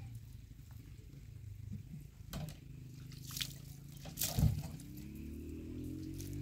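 Liquid being poured into a container, its pitch rising steadily over the last second and a half as the vessel fills, with a few sharp knocks before it and a low steady hum throughout.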